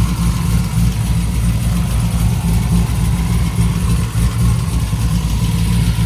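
Chevrolet Camaro ZL1's supercharged V8 idling steadily, a low even rumble.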